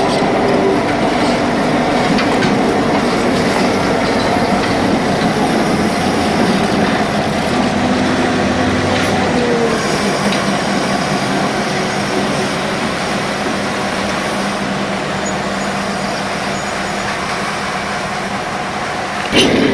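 Diesel-hauled train running on the track, with a steady rumbling noise and faint engine tones. A sudden sharp change just before the end marks a break in the sound.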